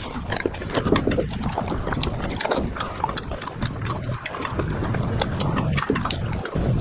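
Close-miked eating: chewing of spicy curry with many quick, irregular mouth clicks over a steady low rumble.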